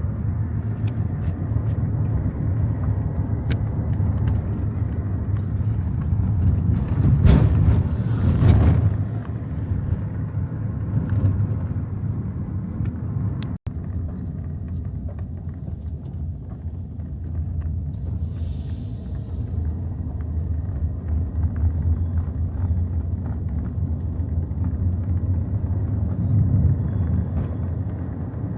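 Steady low rumble of a vehicle in motion, swelling louder about seven to nine seconds in, with a brief break about thirteen seconds in.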